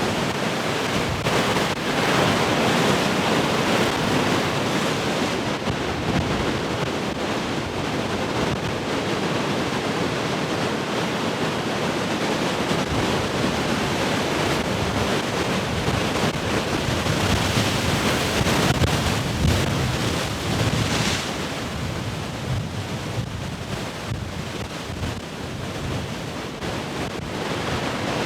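Heavy ocean surf: large waves breaking and washing in continuously, swelling and easing as sets come through, with wind buffeting the microphone.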